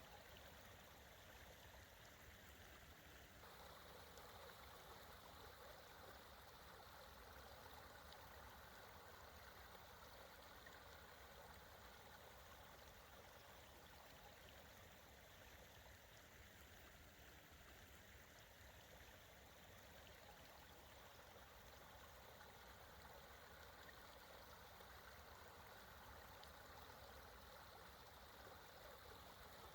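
Faint, steady rushing of creek water, a little fuller from about three seconds in.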